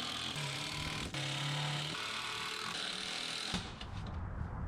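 Electric power drill running under load, driving screws into a wooden ramp's support braces; its motor pitch shifts as the load changes, then it stops suddenly about three and a half seconds in, followed by a few faint clicks of handling.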